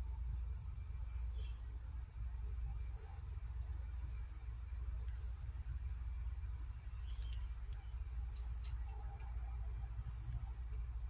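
Insect chorus: a steady high-pitched drone of many insects calling, over a low background hum.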